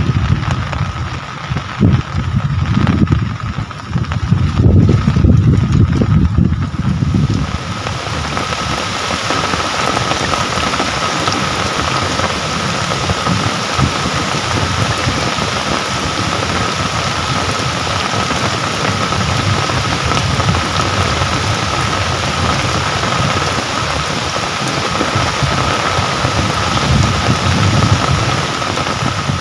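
Steady rain falling, an even hiss. For the first several seconds gusts of wind buffet the microphone with a low rumbling that dies away about seven seconds in, leaving only the rain.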